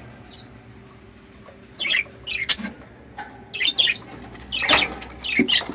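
Caged breeding birds squawking in short, repeated harsh calls, starting about two seconds in and coming thick and fast near the end.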